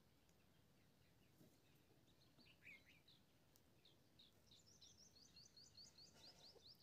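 Faint birdsong over near silence: a few scattered chirps, then from about the middle a quick run of short, high chirps, several a second.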